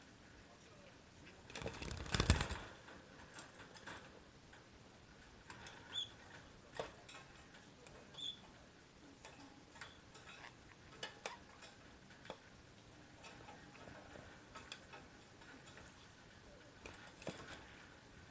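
Pet parakeet moving about, making scattered light clicks and taps, with a brief louder rustle about two seconds in and two short, soft high chirps around six and eight seconds.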